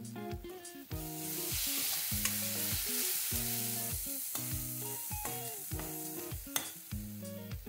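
Chopped tomato masala sizzling in a kadai as it is stirred and scraped with a metal spatula, starting about a second in, over background music.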